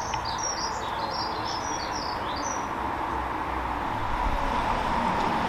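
A small songbird chirping in quick, high, falling notes for the first two and a half seconds, over steady outdoor background noise with a low rumble.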